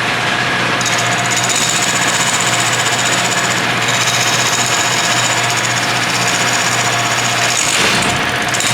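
Wood lathe running with a turning tool cutting into a hard burl-wood bowl: a steady motor hum under a rapid rattling chatter as the tool works the uneven burl.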